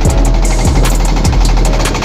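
Boat engine running steadily with a rapid, even beat over a deep hum.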